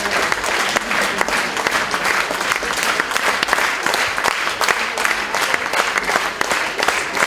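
Concert audience applauding steadily: many hands clapping at once.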